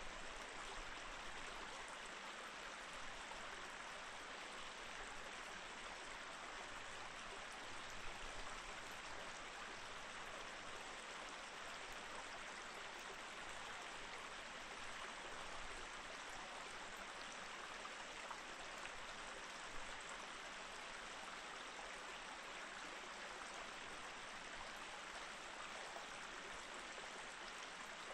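Mountain stream flowing steadily over rocks, an even rushing and burbling of water with a few small splashes.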